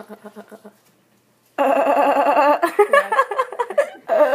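A girl's voice imitating a goat: a wavering, quavering bleat starting about a second and a half in, followed by more voice sounds and a shorter burst near the end.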